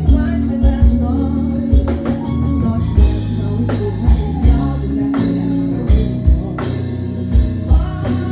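Live band music: a singer over held bass notes and a kick drum thumping in a steady beat.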